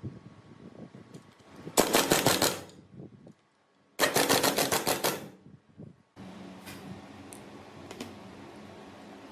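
Two bursts of fast, machine-like rattling, each about a second long, from a power tool at work. A quieter steady hum follows after them.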